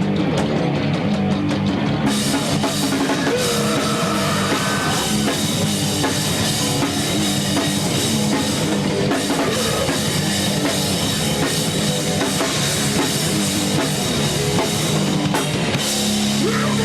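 Loud live heavy rock band playing: distorted electric guitar and drum kit, with cymbals coming in about two seconds in. Near the end the drums thin out under a held, ringing guitar chord.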